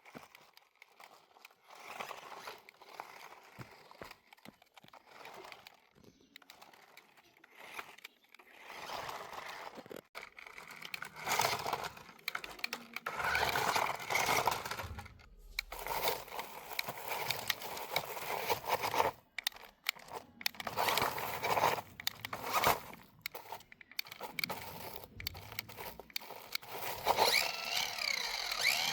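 Plastic and cardboard toy packaging being handled, crinkled and torn open in irregular bursts. Near the end a high whine sets in that glides up and down.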